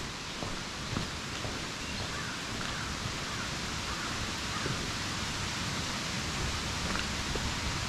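Steady rushing of a waterfall, with a few light footsteps on the trail.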